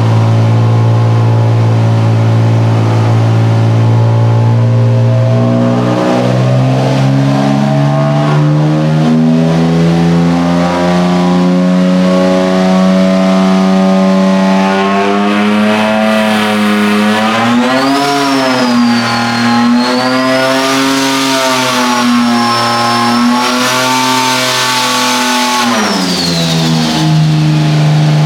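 Turbocharged Infiniti G35 V6 run on a hub dyno: it runs low and steady, steps up in revs twice, then climbs through a long wavering pull toward its rev limit, a high whine joining in the last third. Near the end the revs fall back as the pull is ended.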